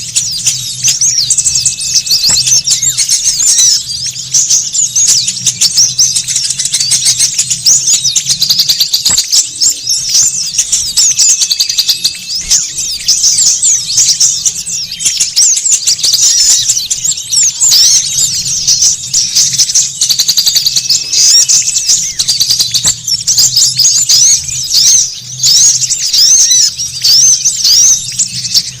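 Many small birds chirping and trilling at once in a dense, busy chatter of high, quick notes: a bird-lure recording of a noisy flock of small songbirds.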